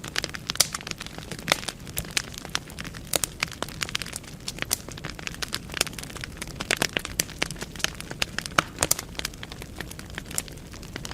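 Wood fire burning in a fireplace, crackling with frequent irregular sharp pops and snaps over a low steady hiss of the flames.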